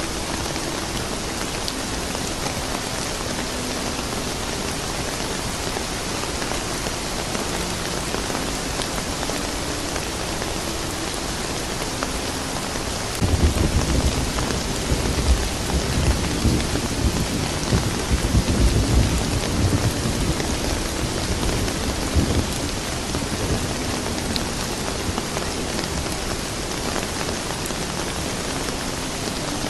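Steady rain falling, with a roll of thunder that starts suddenly about halfway through, rumbles low for about nine seconds and fades back into the rain.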